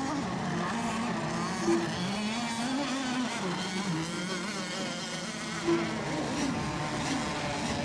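Several radio-controlled racing boat engines buzzing on the water, their pitch rising and falling as the boats circle during milling time before the start. Two short, louder tones cut in about two and six seconds in.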